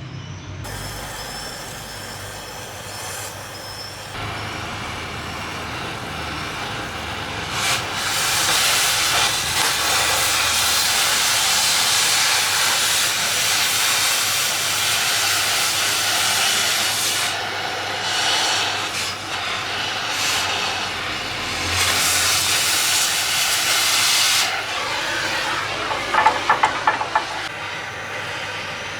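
Oxy-fuel cutting torch hissing steadily as it cuts through steel. The hiss grows louder about eight seconds in, and a few sharp clicks come near the end.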